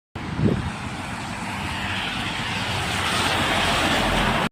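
Road vehicle noise on a wet road: a rushing tyre hiss that grows steadily louder, with a brief low thump about half a second in.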